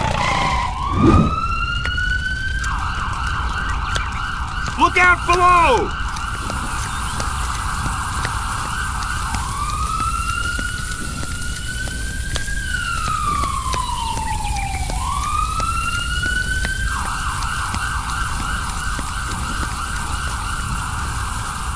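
Electronic emergency-vehicle siren, alternating between a slow rising-and-falling wail and a fast warbling yelp. The yelp runs from about 3 s to 9 s and again from about 17 s to the end, with the slow wail in between. A short high squeaky sound cuts in about 5 s in.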